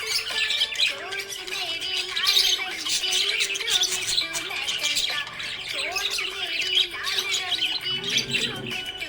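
Budgies chirping and squawking in continuous, busy chatter, with quick overlapping calls throughout.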